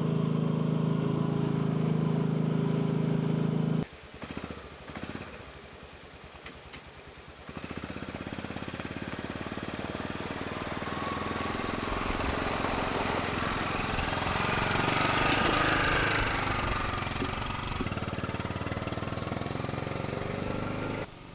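AGT L12 mini excavator's small engine running steadily, then the sound cuts out about four seconds in. After a few seconds of scattered clicks, a rattling engine and machine clatter builds up, grows louder, and drops away abruptly near the end.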